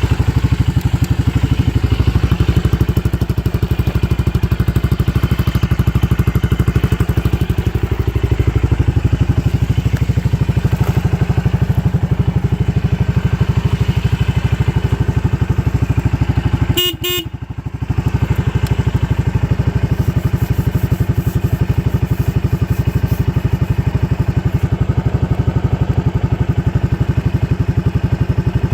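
Suzuki Skywave 250SS scooter's single-cylinder four-stroke engine idling steadily. A little past halfway there is a short horn beep, and the engine sound dips for about a second.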